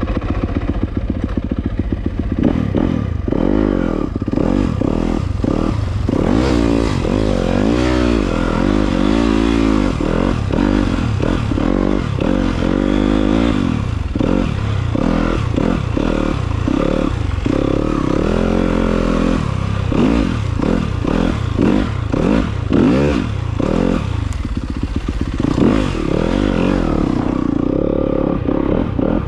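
Dirt bike engine being ridden, its pitch rising and falling over and over as the throttle opens and closes, with clattering mixed in. Near the end it settles to a steadier, lower note.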